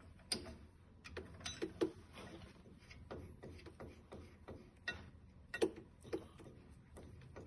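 Scattered light clicks and taps, a dozen or so irregularly spaced over several seconds, over a faint low hum.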